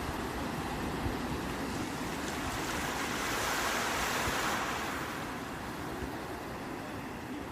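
Sea waves washing onto the shore: a continuous surf rush that swells about three seconds in and then eases off.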